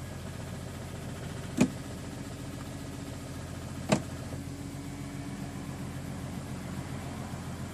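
BMW E46 M3's S54 3.2-litre straight-six idling steadily. Two sharp clicks sound over it, about a second and a half in and again near four seconds. The owner cannot explain the unusual engine noise, which appears once the oil temperature passes 80 °C.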